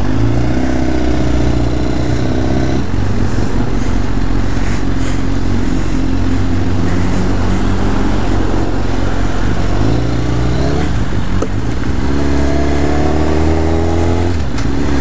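Suzuki GSX-R 1000's inline-four engine pulling as the bike rides off, its pitch rising, then dropping at a gear change about three seconds in. After a noisy stretch of wind, it climbs again twice near the end.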